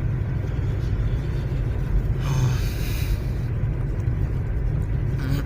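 Steady low rumble of a Lada Vesta driving through a snowstorm, heard from inside the cabin: engine and tyre noise on a snowy road. A brief rise of hiss comes about two seconds in.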